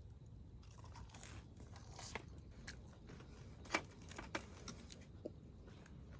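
A person chewing and biting food: irregular soft crunches and clicks, with one sharper click about halfway through.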